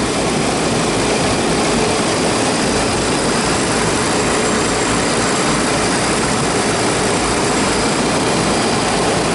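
Steady, even drone of running compressor and fan machinery, holding one level throughout.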